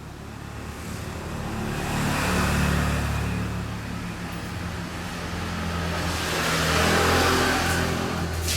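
Motor vehicles passing by, two in turn, each engine sound swelling and fading, the second loudest about seven seconds in. A sharp click comes near the end.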